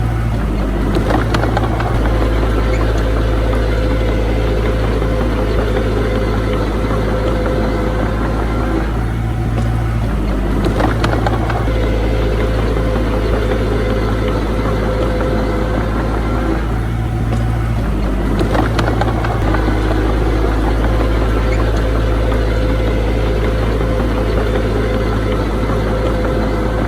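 Heavy diesel engine of earthmoving machinery running steadily under load, its note changing briefly about every eight seconds.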